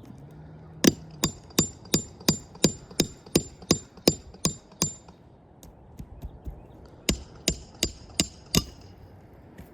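Hammer strikes on metal during shingle nail removal on a roof. About a dozen sharp, ringing blows come at roughly three a second, then after a short pause five more.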